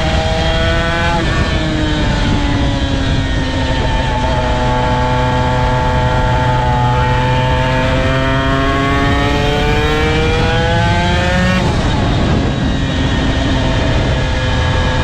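Honda NSR250R's two-stroke V-twin engine under way, its pitch climbing as it accelerates and dropping sharply at gear changes about a second in and again near twelve seconds in, with wind rushing over the onboard microphone.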